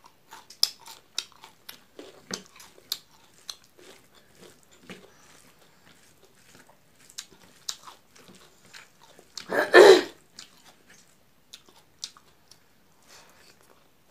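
Close-up eating sounds of rice and milk curry taken by hand: wet chewing with many short mouth clicks, and one much louder crunchy bite about ten seconds in.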